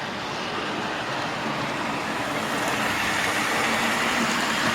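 Two 00 gauge model trains running at once on the layout track, a steady rumble of wheels and motors that slowly grows louder as they come closer.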